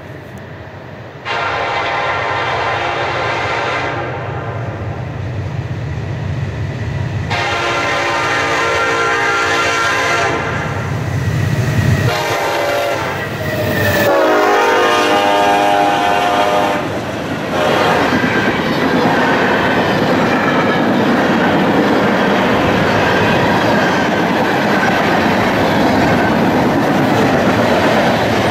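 Diesel freight train locomotive sounding its multi-chime horn in a series of long blasts as it approaches, the last blast dropping in pitch as the locomotive passes about 14 seconds in. A steady noise of freight car wheels on the rails follows as the cars roll by.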